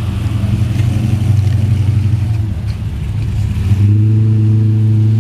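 A car engine running close by, a loud, steady low note; about four seconds in the note shifts and settles into a smoother, even hum.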